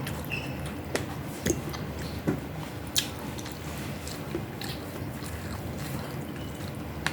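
Close-up eating sounds: chewing and wet mouth noises, with a few sharp clicks in the first three seconds, over a low steady hum.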